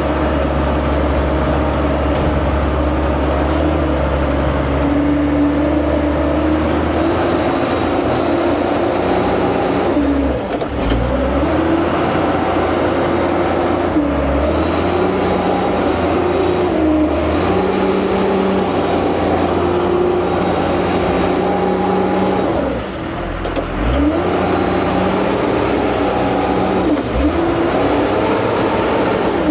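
Diesel engine of a JCB 714 articulated dump truck working under load, its pitch rising and falling repeatedly with throttle and gear changes, and briefly dropping off twice.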